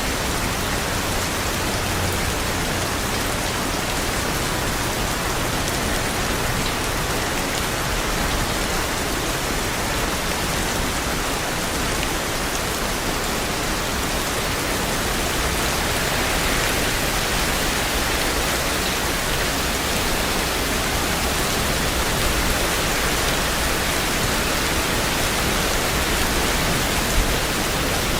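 Steady heavy rain, an even dense hiss of falling drops with no pauses. One brief louder tick near the end.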